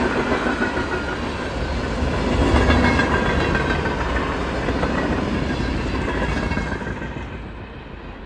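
Freight cars of a mixed freight train rolling past on the rails, steel wheels running over the track. The sound fades near the end as the last car goes by.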